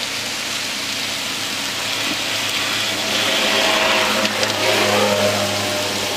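Chicken masala frying in a large iron wok: a steady hiss and sizzle over a low, even hum, growing louder for a couple of seconds around the middle as the ladle works the food.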